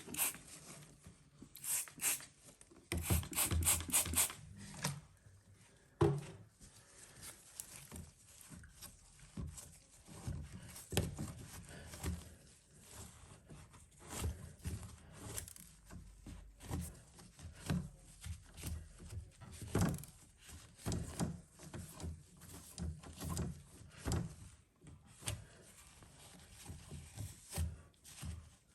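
A trigger spray bottle squirting cleaner, with a quick run of five or six sprays about three seconds in, followed by a cloth rubbing and wiping dirt out of a washing machine's drain pump housing in irregular strokes.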